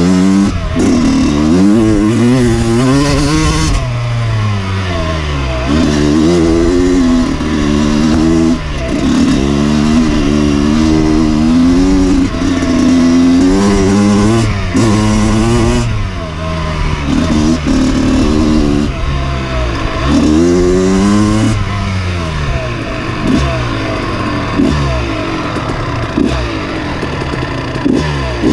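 Dirt bike engine being ridden hard, revving up and easing off over and over, its pitch climbing and dropping every one to three seconds.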